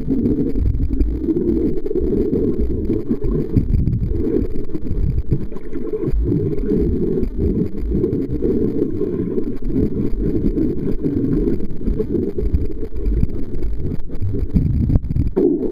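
Steady low rumbling, buffeting noise without speech.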